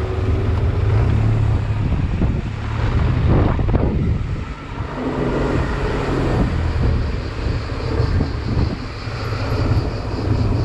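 Honda Silver Wing maxi-scooter engine running while riding slowly in stop-and-go traffic, with a steady low rumble.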